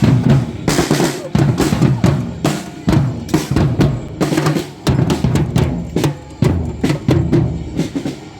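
Marching drum band playing a busy, driving rhythm on snare and bass drums.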